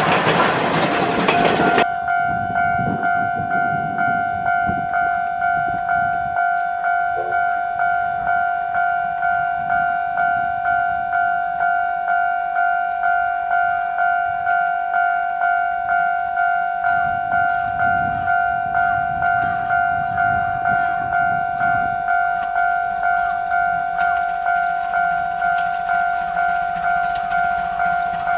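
Railway level-crossing alarm ringing, a single clanging tone struck just under twice a second and held steady. About two seconds in, a louder rushing noise cuts off suddenly.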